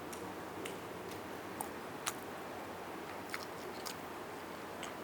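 Close-miked chewing of roast chicken: irregular wet mouth clicks and smacks over a steady hiss.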